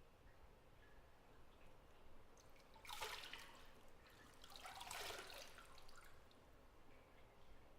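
Faint bathwater sounds in a small tiled bathroom: two brief splashes or trickles, the first about three seconds in and a slightly longer one near five seconds, over quiet room tone.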